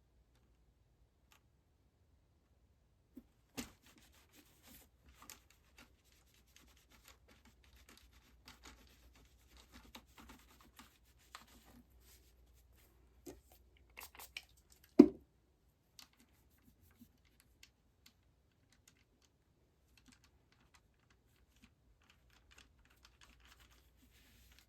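Small clicks, scrapes and rustles of hands handling tools and guitar parts, with one louder knock about two-thirds of the way in; fainter scattered ticks follow.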